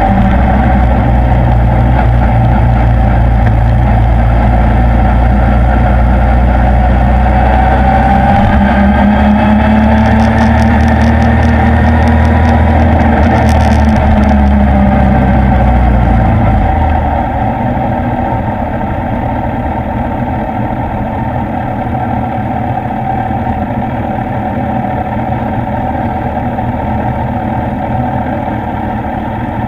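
Suzuki inline-four motorcycle engine and wind noise while riding, the engine note rising and falling with speed. About 17 seconds in it drops to a quieter, steady idle as the bike comes to a stop.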